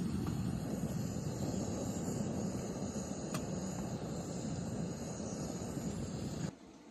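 Steady low rumbling noise with a faint high hiss above it, cut off suddenly near the end.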